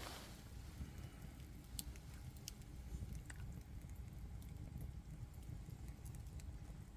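Campfire crackling: scattered sharp pops and snaps over a low, steady rumble.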